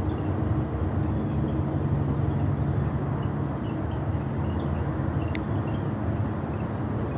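Distant low rumble of an Atlas V rocket climbing after launch, a steady deep roar arriving well after liftoff. A faint chirping sits above it, with a single sharp click about five seconds in.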